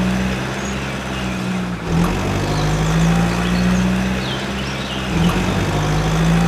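Heavy machine diesel engine running steadily, its note dipping briefly about two seconds in and again about five seconds in as the load changes. Birds chirp faintly.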